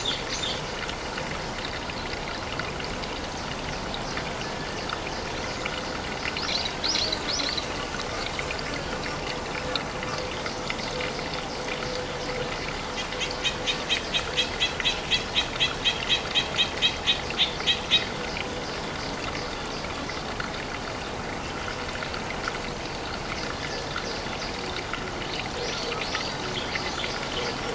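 Water trickling steadily at a pond, with birds calling over it: a short high call about seven seconds in, then midway a trill of about sixteen quick high notes, some three a second, growing louder over about five seconds.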